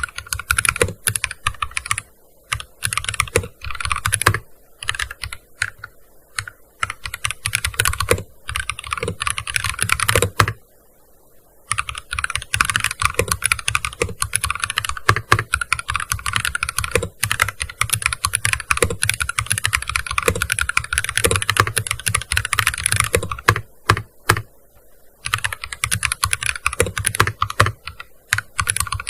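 Typing on a gaming keyboard: rapid runs of key clicks broken by brief pauses, the longest lasting about a second some ten seconds in.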